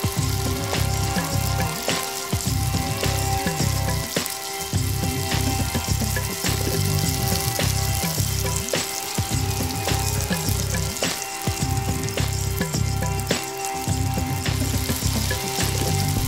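Onion and green capsicum frying in oil in a pan, a steady sizzle with frequent crackles, over background music.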